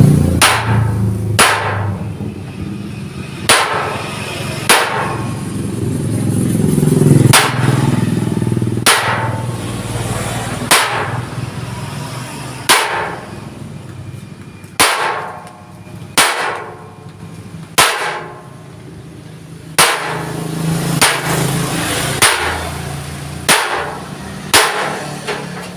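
Hammer striking a hand chisel into thick steel plate, working decorative lines into a sheet-metal cover by hand. Sharp ringing metallic strikes, one every second or two, at an uneven pace.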